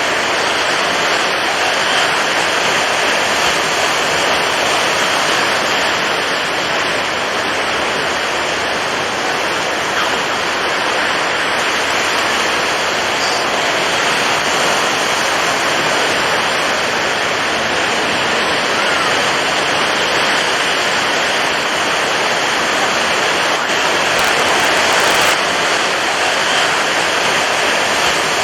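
Heavy surf of a stormy sea: a dense, steady rush of churning and breaking water.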